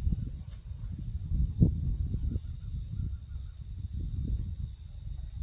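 Wind rumbling on the microphone outdoors, uneven and gusty, with a steady high-pitched insect drone behind it.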